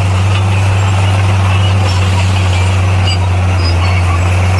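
Heavy construction machine's diesel engine running steadily, a constant low drone that holds the same pitch throughout.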